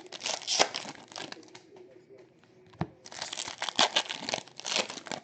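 Trading-card pack wrappers crinkling and tearing as packs are opened by hand, in two spells of rustling with a quieter gap and a single click in the middle.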